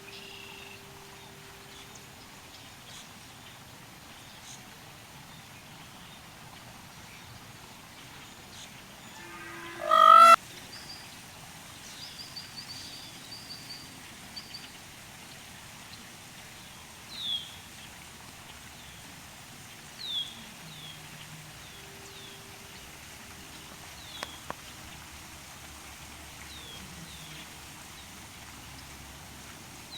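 Indian peafowl (peacock) giving one loud, harsh call about a third of the way in. Smaller birds chirp around it, with a run of short, falling high chirps in the second half, over a quiet outdoor background.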